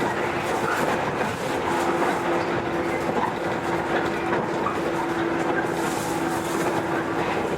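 JR 115 series electric multiple unit running, heard from inside the car: a steady rumble of wheels on rail, with a steady hum joining about two seconds in.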